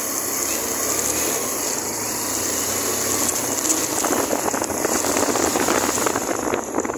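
Suzuki GN125's single-cylinder four-stroke engine running while the motorcycle rides through traffic. It grows louder about four seconds in.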